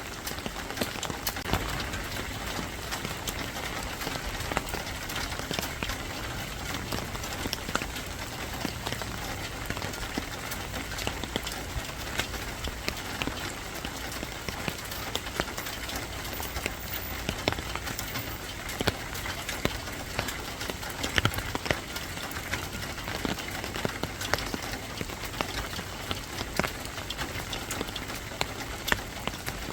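Steady rain: an even hiss with frequent sharp drip ticks scattered through it.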